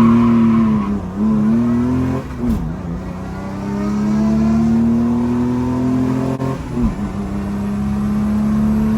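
Chrysler 265 Hemi straight-six with triple Weber carburettors running hard under acceleration; its pitch climbs steadily and dips briefly three times, at gear changes.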